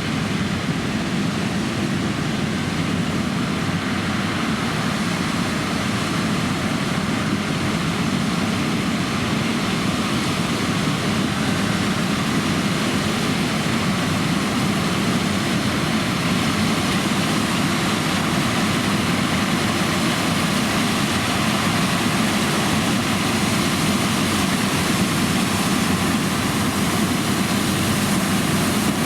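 John Deere X9 1100 combine harvester running steadily while combining oilseed rape, a continuous engine and machinery drone that grows slightly louder over the stretch.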